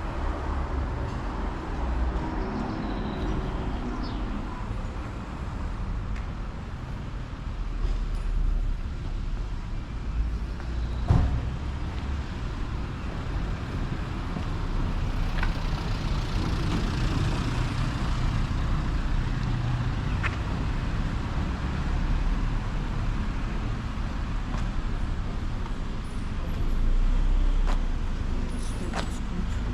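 Road traffic passing on a town street: a steady low rumble of car and other vehicle engines and tyres, with a single sharp knock about eleven seconds in.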